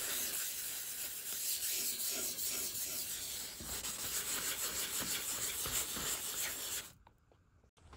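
Sandpaper rubbing on wood in a light sanding of the shellac-pre-treated door surface before the clear coat, with an uneven back-and-forth rasp that stops abruptly about seven seconds in.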